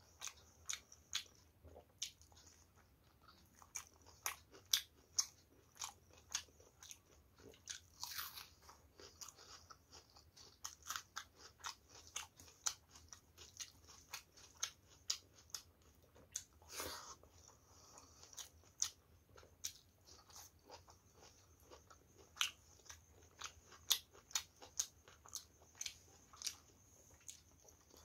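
A person chewing mouthfuls of rice and curry eaten by hand, with many short mouth clicks and smacks throughout and a couple of longer noisier sounds about 8 and 17 seconds in.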